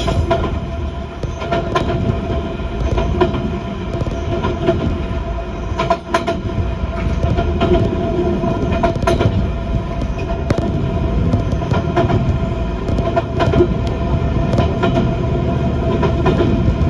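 Passenger train running along the track, heard from inside the carriage: a steady rumble with a constant drive whine and irregular clacks as the wheels cross rail joints.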